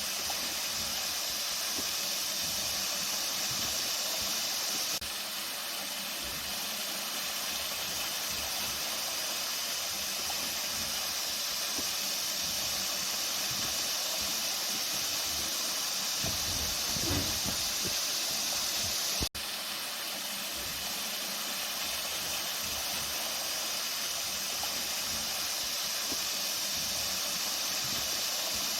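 Flowing water running steadily as an even rushing hiss, with a split-second dropout about two-thirds of the way through.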